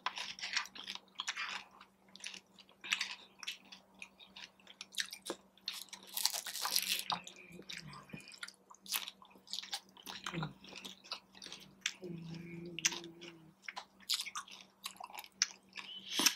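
Close-up chewing and crunching of crunchy taco shells and Doritos nachos, in irregular bites, with a louder, longer crunch about six seconds in.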